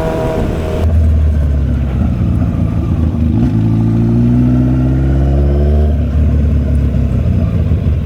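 Motorcycle engine under acceleration: its pitch climbs steadily for about three seconds, then drops suddenly at a gear change, over a heavy low rumble of wind on the microphone.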